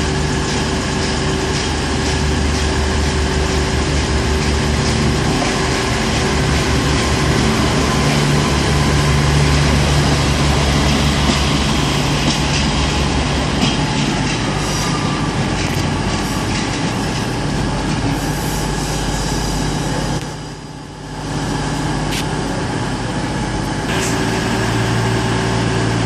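Diesel multiple unit's engine running as the train pulls out of the station, a low throbbing drone with steady engine tones. The sound drops away briefly about twenty seconds in, then returns.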